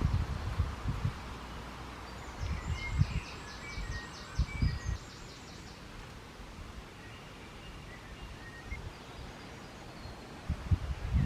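Footsteps on woodland leaf litter, coming in irregular clusters and heaviest at the start and near the end, with birds calling: short chirps and a high, rapid trill a couple of seconds in.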